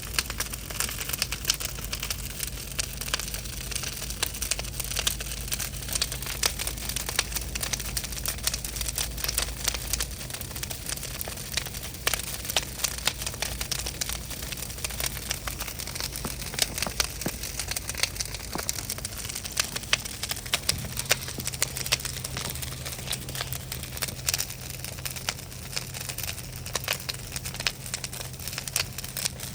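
Large bonfire burning, the wood crackling with a dense run of sharp snaps and pops.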